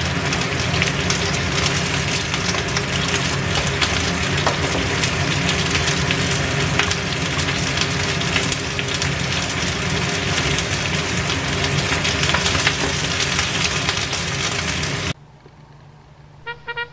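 Jengkol (dog fruit) slices, egg, shallots and red chillies sizzling steadily in oil in a nonstick frying pan, with occasional clicks of a wooden spatula turning them. The sizzle cuts off suddenly shortly before the end, and light music starts.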